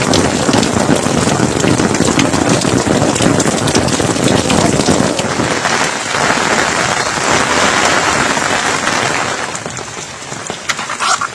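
Steady heavy rain falling and pattering on surfaces, easing a little after about nine seconds.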